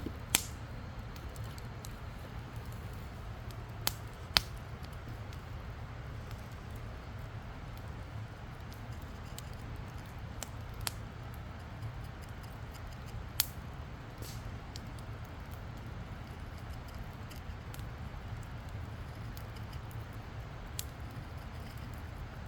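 Wood campfire burning: a steady low rumble with scattered sharp crackles and pops of burning wood, the loudest about half a second and four seconds in.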